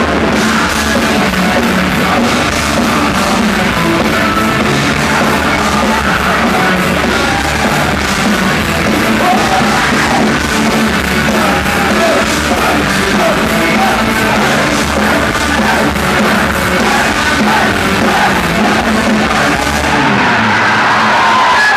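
A live hard rock band playing loudly with shouted singing. The band cuts off near the end.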